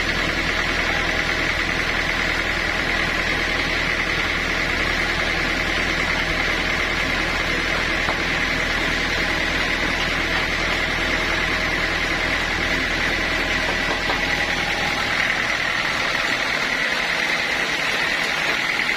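Sawmill machinery running steadily, with a constant high whine over a noisy mechanical din; the low hum underneath drops away about fifteen seconds in.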